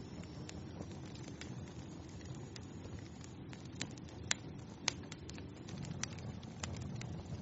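Wood fire burning in a fireplace, with a steady low rumble of the flames and irregular sharp crackles and pops, two louder pops a little past the middle.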